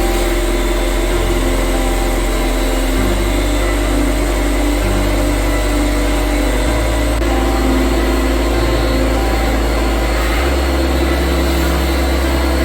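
Steady hiss and motor noise of a high-pressure washer spraying, with background music underneath.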